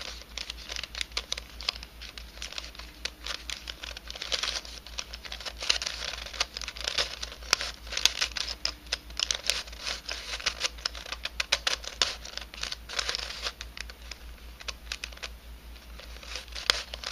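Pieces of a 3D-printed nylon helicopter cube puzzle being twisted by hand: rapid, irregular clicking and scratchy plastic rustling as the pieces slide and snap past each other, coming in clusters with each sequence of turns.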